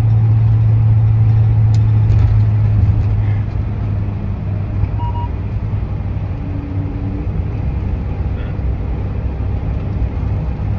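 Vehicle running: a steady low hum over a rumble, louder for the first three seconds or so and then settling at a lower, even level.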